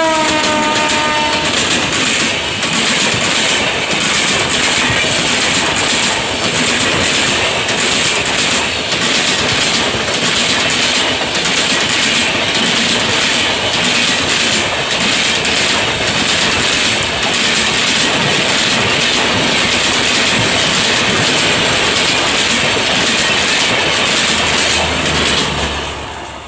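Indian Railways express train passing at speed close by: the electric locomotive's horn sounds as it goes by, its pitch dropping, then the coaches rush past with a loud, steady rumble and clatter of wheels on rail. The noise fades away near the end.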